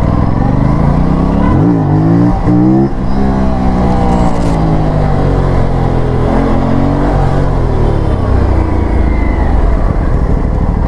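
Aprilia RS457's parallel-twin engine revving hard: its pitch climbs for about two seconds, drops off abruptly about three seconds in, then falls away slowly before picking up again about six seconds in and holding fairly steady.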